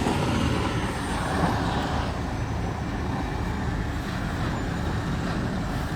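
Steady low rumble of heavy vehicle engines running, a city bus and a tow truck, with street traffic noise.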